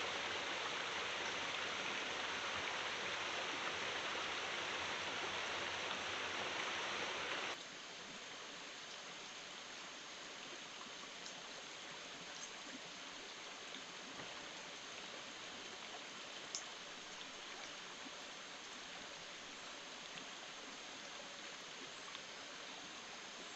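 Steady rain falling in a forest. It is loud at first, then drops sharply to a softer patter about a third of the way in, with occasional light drip ticks.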